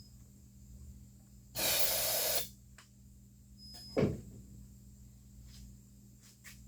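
A steady hiss lasting just under a second, then a single sharp knock about two seconds later, over a low hum.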